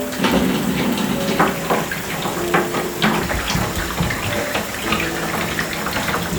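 Water running and splashing steadily, with many small drips and splashes.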